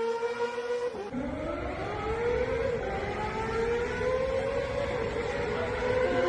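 Kawasaki ZX-6R inline-four with an SC Project full titanium exhaust system, holding a steady note, then dropping in pitch about a second in and climbing slowly and smoothly for several seconds as the bike pulls away under throttle.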